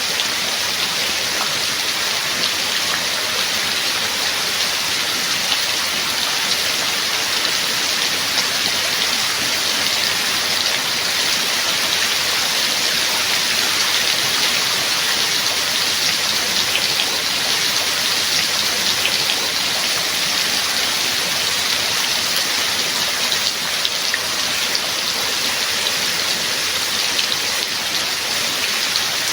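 Steady heavy rain falling, a dense, even patter of drops that holds without a break.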